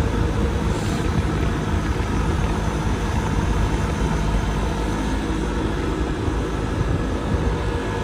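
Motorcycle running steadily at an even engine speed, with a loud low rumble.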